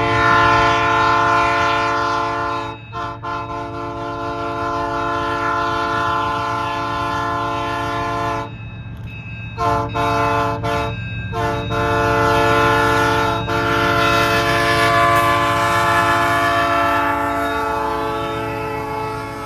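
Train horn blowing a loud, steady chord of several tones: one long blast of about eight seconds with a brief break near three seconds in, two short toots around ten seconds in, then another long blast that fades near the end. A steady low rumble from the train runs underneath.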